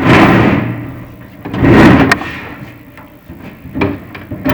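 Chimney inspection camera scraping and bumping against the inside of a prefabricated fireplace flue as it is lowered, with two loud rasping scrapes, the second ending in a sharp click, then quieter rubbing and small knocks.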